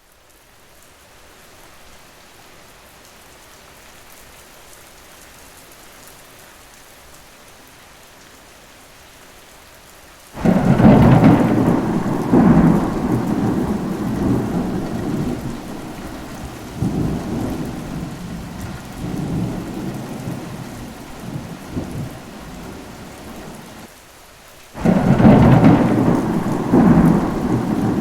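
Steady rain hiss. About ten seconds in, a sudden loud thunderclap breaks and rolls on in rumbling waves, fading slowly over more than ten seconds. A second loud thunderclap breaks in near the end.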